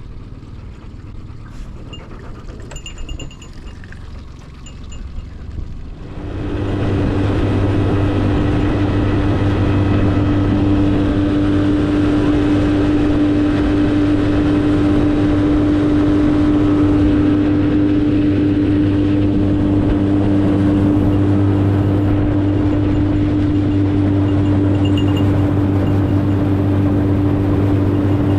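Boat's outboard motor comes in suddenly about six seconds in and then runs steadily with a strong, even hum; before it, only a quieter noisy background.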